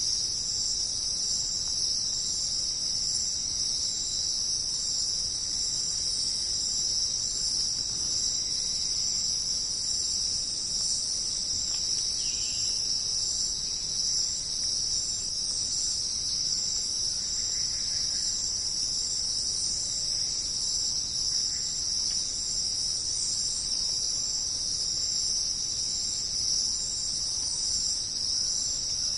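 A dense, steady chorus of jungle insects keeps up one unbroken high shrill, without pauses or swells.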